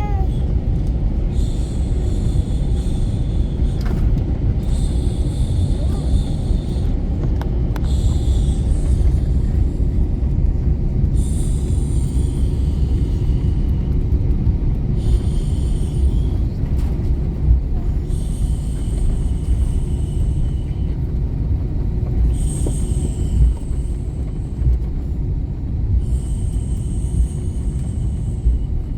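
Airliner cabin noise in flight: a steady, loud low rumble of the jet engines and airflow, with a faint high hiss that comes and goes every second or two.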